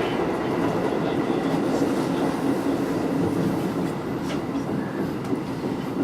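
JR electric local train running on the rails, heard from inside the car: a steady rumble with a light clickety-clack of the wheels, easing slightly quieter over the last couple of seconds.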